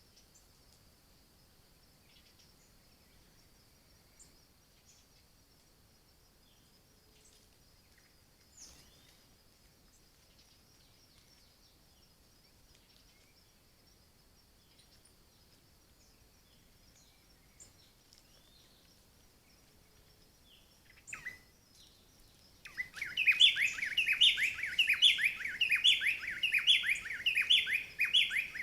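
A wild bird calling close by near the end: a loud, rapid run of short falling chirps that starts suddenly after a long stretch of faint, scattered bird notes over a steady high hiss.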